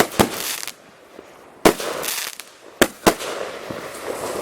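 Consumer multi-shot firework cakes firing: sharp bangs near the start, about 1.7 s in, and two close together near 3 s in, each followed by a crackling hiss.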